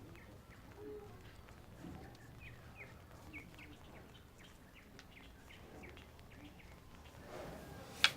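Small birds chirping: many short, high chirps in quick succession. A sharp click near the end.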